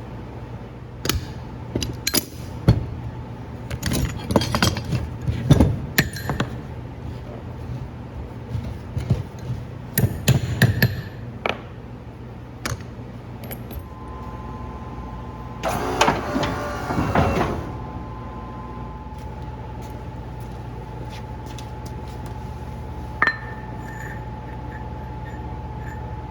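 Steel plow skid shoes and their bolts and washers clinking and knocking as they are handled and fitted, with a denser metallic rattle about two thirds of the way in, over a steady low hum.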